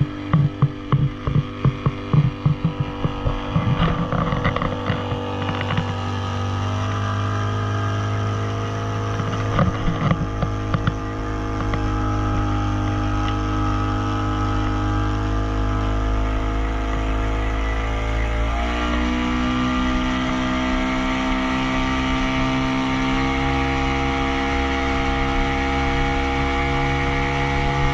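Motorboat engine running steadily, with irregular pulsing in the first few seconds; about two-thirds of the way through its pitch steps up a little and then holds.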